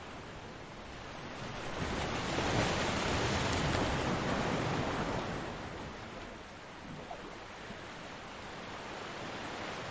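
Ocean surf breaking on a beach. One wave swells up about a second and a half in and is loudest for a few seconds, then dies back to a steady hiss of surf.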